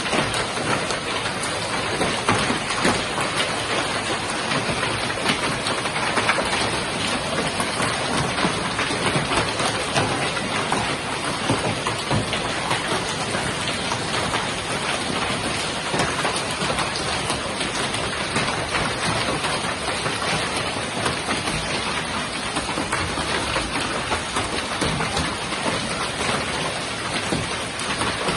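Hail and heavy rain pelting down steadily, a dense patter of countless small impacts on hard surfaces.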